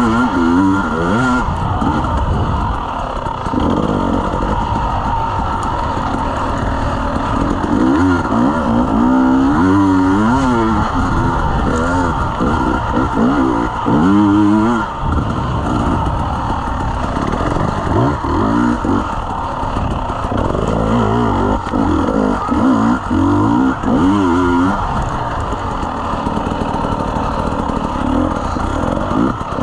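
Dirt bike engine revving up and dropping back again and again as the rider works the throttle through the course, heard close up from the rider's own camera.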